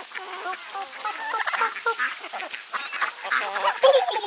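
A flock of domestic turkeys and chickens calling at close range: many short, wavering calls overlapping one another, with a louder burst near the end.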